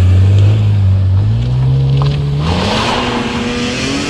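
BMW E46 M3's 3.2-litre straight-six (S54) accelerating away, its engine note rising slowly and then climbing faster about two and a half seconds in, joined by a rush of road and exhaust noise.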